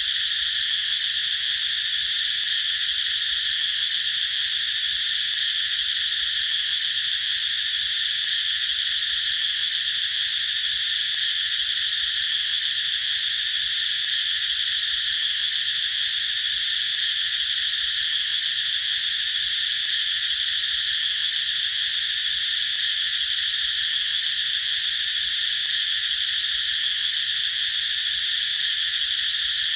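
A chorus of cicadas singing: a dense, high-pitched, even buzz with no breaks.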